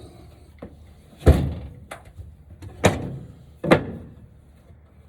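Heavy knocks of wooden framing lumber: three loud thuds with short ringing tails, the first the deepest, and a couple of lighter taps.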